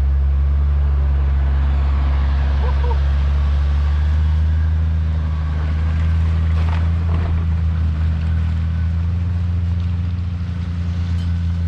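Off-road vehicle's engine running at a steady, unchanging pitch, a deep continuous hum with no revving.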